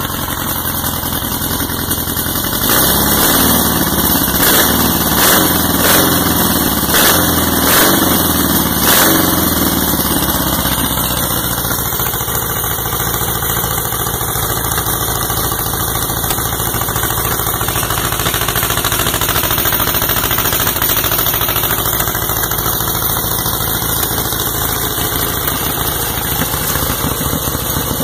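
Freshly built 2180cc air-cooled VW flat-four, 160 hp, running on one of its first startups. It is revved up and down several times in the first ten seconds, then settles into a steady idle.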